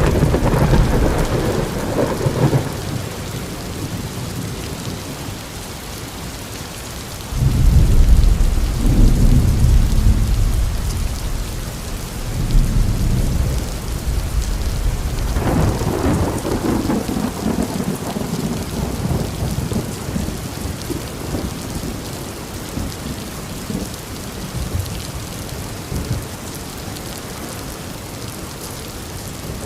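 Steady rain with rolling thunder. The loudest roll starts suddenly about seven seconds in and rumbles for several seconds, and further rolls follow a little later.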